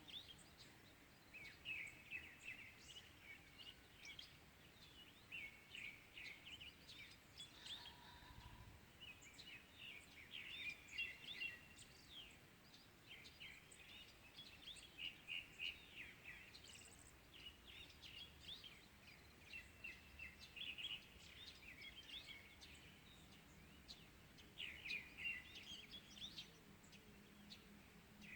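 Faint chorus of small birds chirping and twittering in quick, overlapping runs of short calls.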